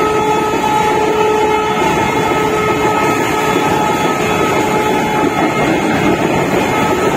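Freight wagons rolling past at close range: a loud, steady rumble and clatter of steel wheels on the rails. A thin, steady tone rides over it and fades out during the first half.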